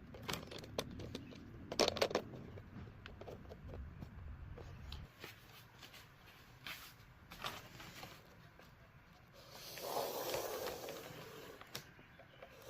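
Hands handling thin sheets of wood veneer and tape on a workbench: scattered light taps and clicks, a cluster of knocks and rustle about two seconds in, and a longer rustle near the end.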